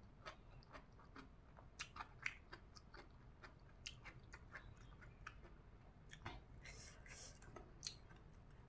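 Faint close-up chewing of a mouthful of spicy green papaya salad: soft, scattered mouth clicks, with a brief hiss about two-thirds of the way through.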